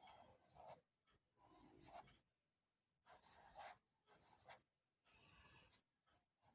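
Faint scratching of a drawing tool on paper: a series of short strokes, each under a second long, with brief pauses between them.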